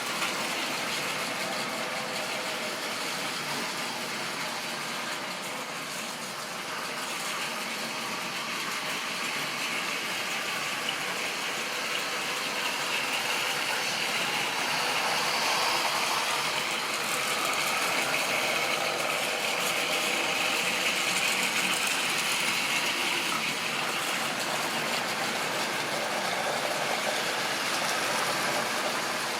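A model railway train running on the track: a steady motor whine and wheel rumble that grows a little louder about halfway through.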